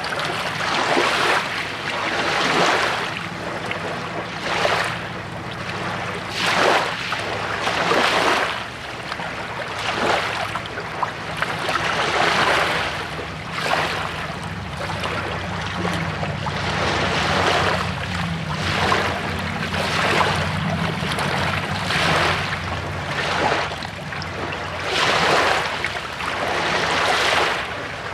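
Lake waves washing in and out at the water's edge, a swell of rushing water every second or two, over a low steady hum.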